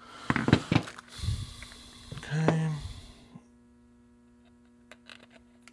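A few sharp clicks and knocks in the first second, then a hiss lasting about two seconds. A faint steady hum runs underneath.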